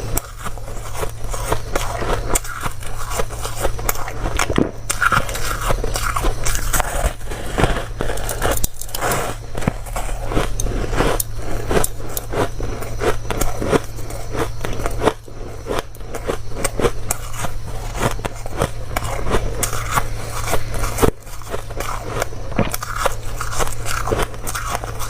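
A person biting and chewing crunchy ice close to the microphone: dense, irregular cracking crunches throughout, with brief pauses about fifteen and twenty-one seconds in, over a steady low hum.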